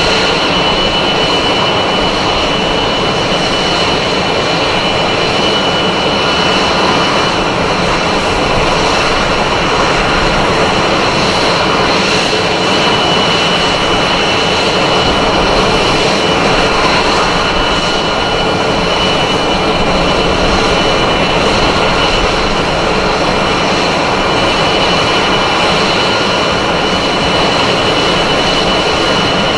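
F-22 Raptor's jet engines running loudly and steadily: a dense roar with a constant high-pitched whine and no rise or fall in pitch.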